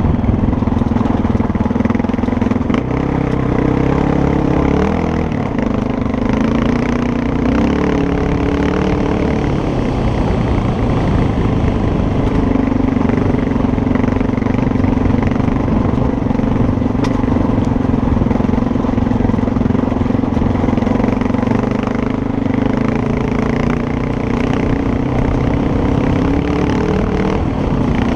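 Motorcycle engine running while riding, its pitch stepping up and down over the first ten seconds as the speed changes, then holding fairly steady at cruise.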